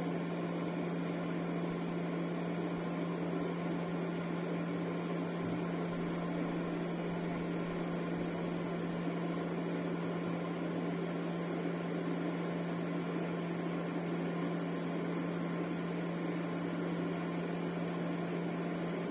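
Ceramic space heater's fan running with a steady whirr and a constant low hum: its 30-second cool-down run after being switched off, which makes sure the heater has cooled properly before it powers fully off.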